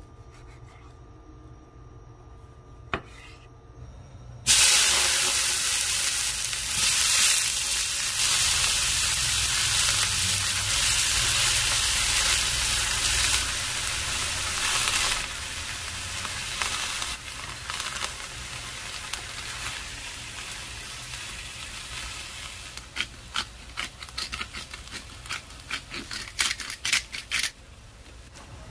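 Cut tomatoes and other vegetables sizzling in a hot stainless steel frying pan. The sizzle starts suddenly about four seconds in, is loudest for the first ten seconds, then settles lower as the vegetables are stirred. Before it there is one sharp tap of a knife on a wooden cutting board, and near the end a run of quick clicks as salt and pepper go on.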